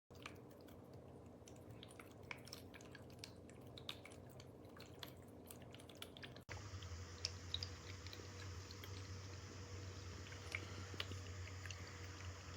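Electric pet water fountain running: a faint steady pump hum with water dripping and trickling. The hum becomes stronger after a brief break about six and a half seconds in.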